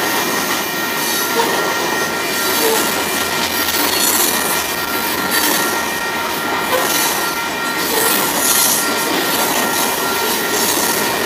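A freight train of open-top hopper cars rolling past close by, with a steady, loud rumble and rattle of wheels and cars. A few thin, steady high-pitched tones sit over it.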